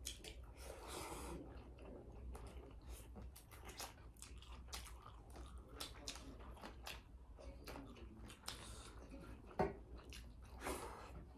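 Close-up chewing of two people eating rice and chicken curry by hand, with many small scattered clicks; one sharper click about nine and a half seconds in.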